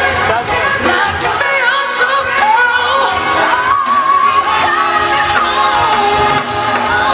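Live gospel-pop performance: a female lead voice sings runs whose pitch glides up and down, over band and choir.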